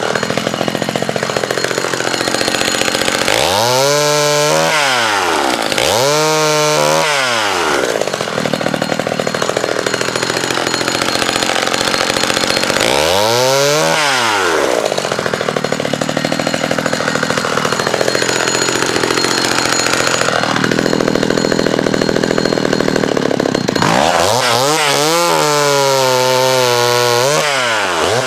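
McCulloch Mini Mac 35 two-stroke chainsaw cutting branches into firewood. The engine revs up and drops back several times, its pitch sweeping up and down, and holds high and wavering for a few seconds near the end.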